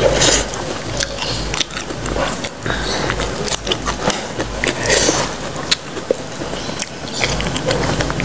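Close-miked biting and wet chewing of firm raw green banana dipped in rujak sambal, with many small crunches and mouth clicks.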